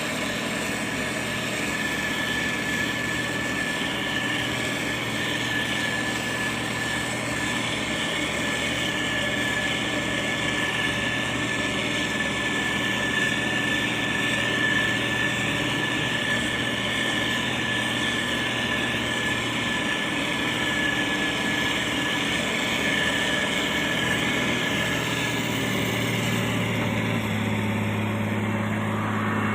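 Motor grader's diesel engine running steadily under working load, with a thin high whine over it. Near the end the whine fades and the engine note changes.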